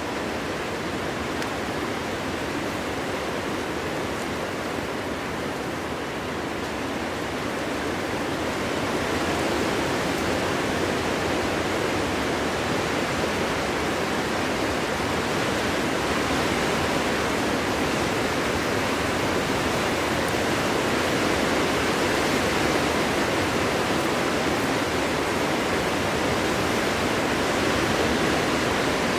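Wind blowing in a steady, unbroken rush, growing a little louder about eight seconds in.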